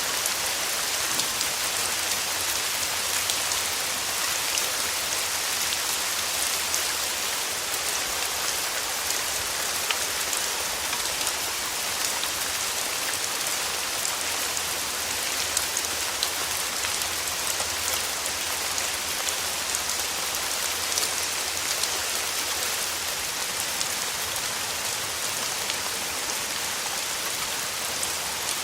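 Steady rain falling on a surface, a dense even patter of many small drop ticks.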